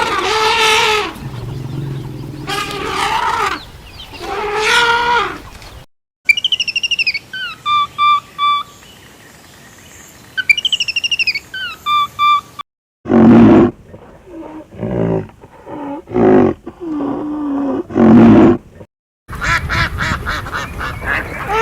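A run of different animal and bird calls, each cut off by a brief gap of silence. First come loud pitched calls, then a series of high, falling whistled notes, then more loud calls and another call series near the end.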